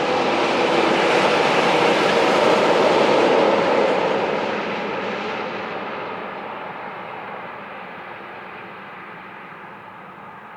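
A heavy truck, likely a road train, driving past: engine and tyre noise swell to their loudest about three seconds in, then fade slowly as it moves away.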